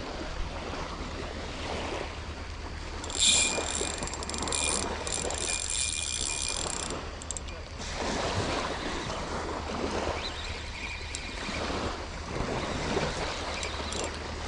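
Light surf washing on the beach, with wind on the microphone. A high whine starts about three seconds in and stops about four seconds later.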